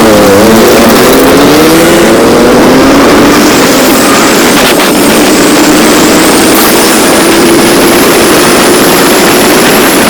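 Motorcycle engine running on the road. Its pitch climbs over the first few seconds as it speeds up, then holds steady at cruising speed, with a steady rush of noise behind it.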